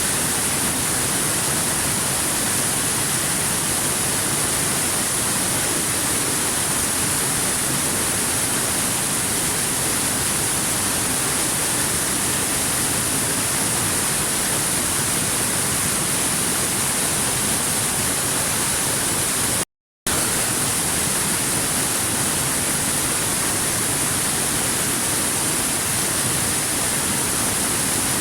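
Waterfall rushing, a steady even hiss strongest in the high treble. It drops out to silence for a split second about twenty seconds in.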